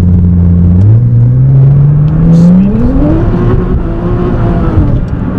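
A tuned 680 bhp Nissan GT-R R35's twin-turbo V6, heard from inside the cabin, accelerating hard. Its note climbs steadily from about a second in, holds at high revs, then eases slightly near the end.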